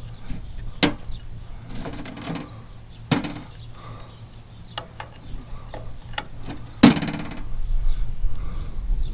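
Metal parts and tools being handled while a hose fitting is readied: three sharp clinks and knocks, the loudest about seven seconds in, with some rustling around two seconds in. A low wind rumble on the microphone comes in near the end.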